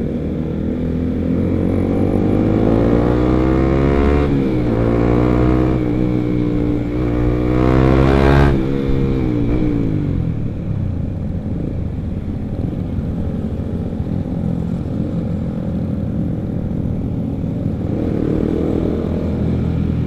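Honda CBR150R's single-cylinder engine through an R9 aftermarket exhaust, accelerating with the pitch climbing in a few steps as it goes up the gears. It peaks about eight seconds in, then the throttle closes and the revs fall away to steadier, lower running.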